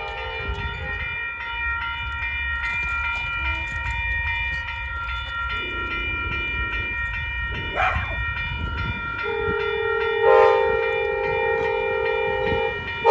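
Amtrak P42DC locomotive's air horn sounding in long held blasts as the train approaches, much louder from about nine seconds in, over the low rumble of the train.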